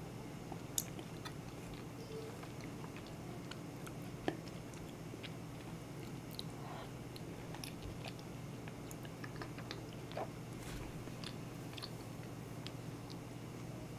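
Close-miked mouth sounds of a person chewing a thick corn-and-bean porridge, with small wet clicks. A metal spoon works against a ceramic bowl, and there are two sharper ticks, about a second in and about four seconds in.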